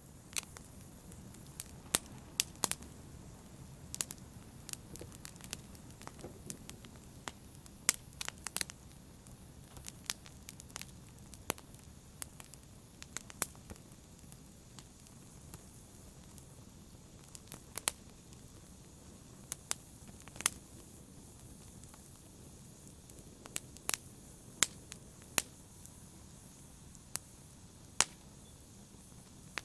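Fire burning in a fireplace: a low steady rush of flames with sharp crackles and pops at irregular intervals.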